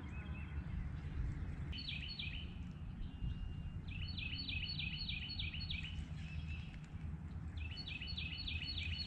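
A songbird singing three short songs, each a quick run of repeated high notes at about four or five a second, over a steady low rumble.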